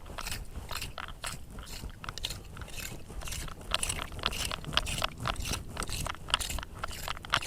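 A scraper being dragged through gritty sand and shell fragments while digging for Venus clams. It makes irregular, gritty crunches and scrapes in quick succession.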